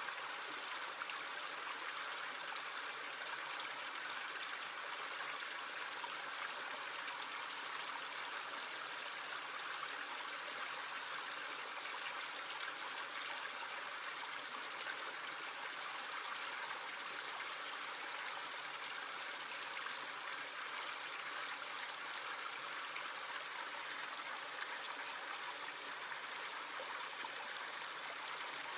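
Small stream running over stones: a steady rush and trickle of water.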